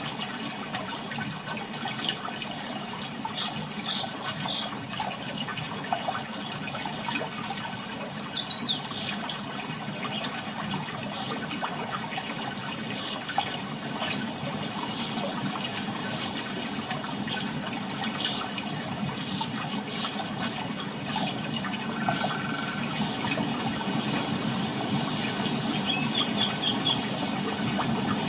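Seashore ambience: a steady wash of water, slowly growing louder, with birds calling in short high chirps over it, coming more often near the end.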